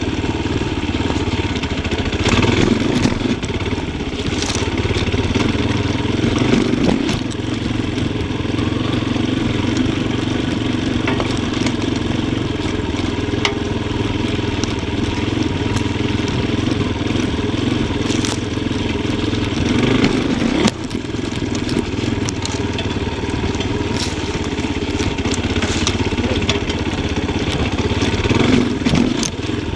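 Yamaha Tricker XG250's single-cylinder four-stroke engine running on a slow off-road ride, its revs swelling briefly several times as the throttle is opened. Scattered sharp clicks and knocks sound over the engine.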